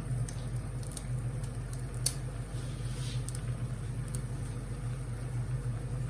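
Soaked, softened noodles being cut into pieces: a few soft clicks and squishes, the sharpest about two seconds in, over a steady low hum.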